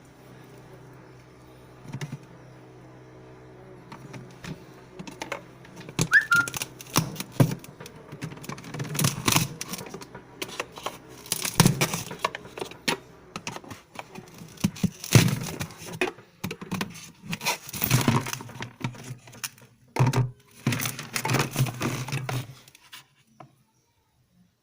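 A steady low hum under a stream of irregular clicks, taps and crinkling handling noises that get busier after a few seconds, then everything cuts off suddenly near the end.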